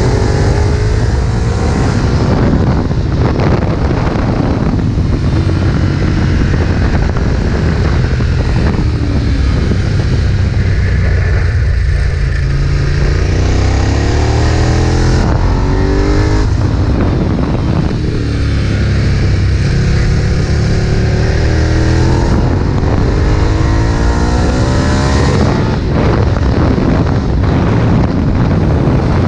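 Ducati 1098's L-twin engine running hard at full throttle, its pitch rising again and again and breaking off briefly at each upshift or braking point.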